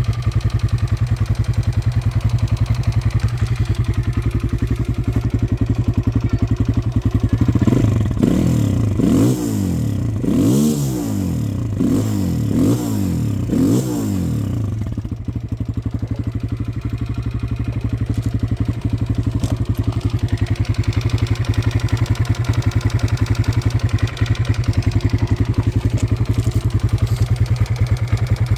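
Kawasaki KLX140RL's air-cooled single-cylinder four-stroke engine idling steadily as it warms up after a cold start. About a third of the way in, the throttle is blipped about six times in quick succession, and then the engine settles back to idle.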